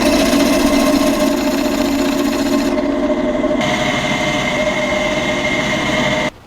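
A small motorised power tool running steadily with a fast, even whir; its tone changes about halfway through, then it stops suddenly near the end.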